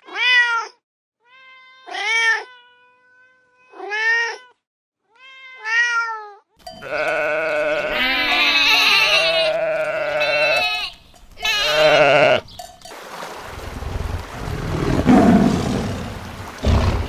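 Goats bleating: four single arched bleats about two seconds apart, then several overlapping bleats for about six seconds. The bleating gives way to a noisy low rumble near the end.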